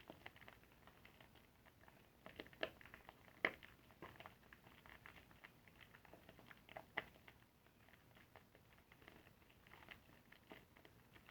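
Soapy car-wash sponge being squeezed and worked, giving soft wet crackling and squishing with irregular small pops. A few louder pops come about two and a half, three and a half and seven seconds in.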